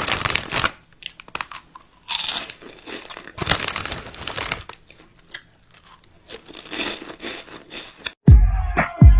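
Irregular crunching and crinkling noises in separate bursts, then electronic music with heavy bass hits starting suddenly near the end.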